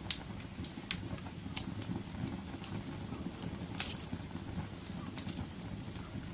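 Wood fire crackling: irregular sharp pops and snaps over a steady low noise of burning, the loudest pops right at the start and about four seconds in.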